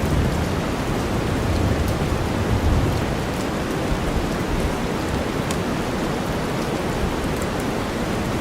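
Steady rain mixed with deep white noise: a continuous, low-weighted hiss with faint scattered drop ticks. A low rumble swells over the first three seconds, then eases.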